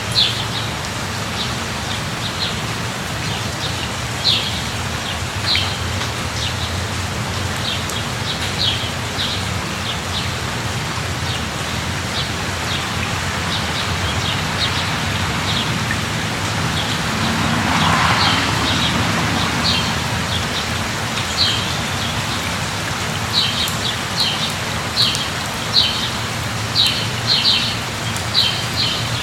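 Steady rain falling, with short high bird chirps scattered over it that come thicker near the end. A brief swell of broader noise rises and fades a little past the middle.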